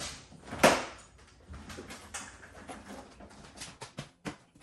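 Jars and containers knocking as they are handled and set down, with one loud knock under a second in and a run of small clicks and taps near the end.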